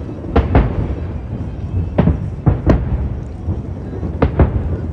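Aerial firework shells bursting: seven sharp bangs, several in quick pairs about a fifth of a second apart, over a continuous low rumble of the ongoing display.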